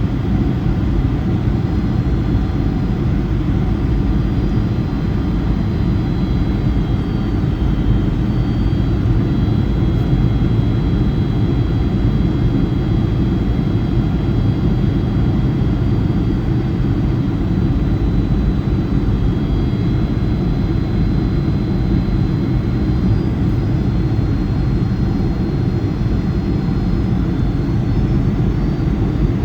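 Boeing 757-200's jet engines heard from inside the passenger cabin on approach: a steady, loud, low rumble with a faint high whine that drifts slightly in pitch.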